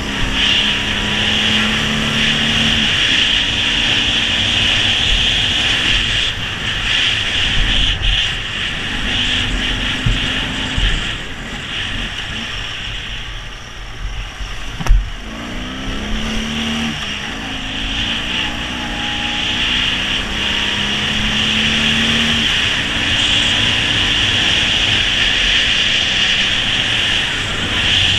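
Ural sidecar motorcycle's flat-twin engine running under way, with wind and road noise. The engine pitch climbs and drops back in steps through the gears, eases off near the middle, and then picks up again. A single sharp thump about halfway through is the loudest sound.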